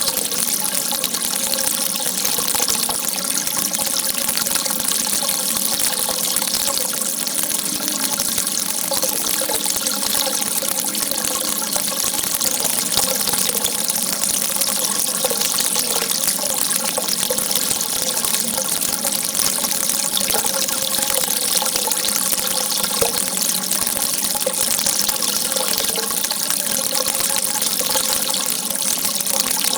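Water gushing in a steady, continuous rush, a jet of water running without pause.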